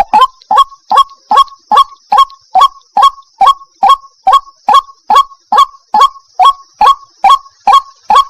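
A white-breasted waterhen (ruak-ruak) calls in a steady run of short, harsh notes, about two and a half a second, each dropping in pitch. A steady high hiss runs behind.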